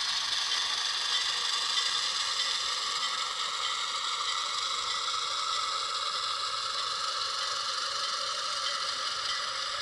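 HO-scale model locomotive moving slowly along the track: a steady mechanical running sound from its motor, gears and wheels.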